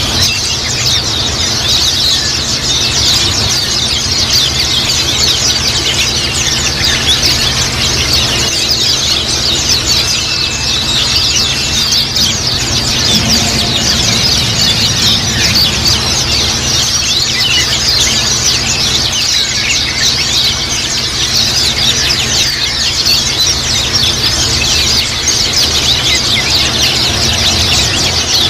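A flock of white-eyes (pleci) chirping and twittering together in a dense, continuous chorus of rapid high chirps, the 'ngiriwik' chatter of a group of pleci kept together. A steady low hum runs underneath.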